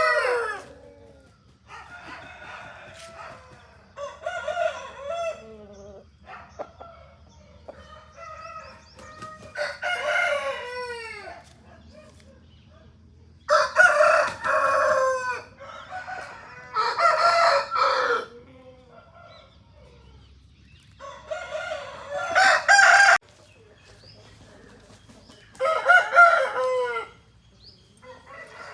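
Aseel roosters crowing one after another, a crow every few seconds, some loud and close, others fainter.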